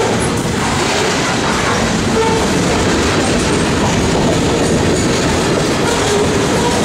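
Freight train of grain hopper cars rolling past, a steady loud rumble and clatter of steel wheels on the rails.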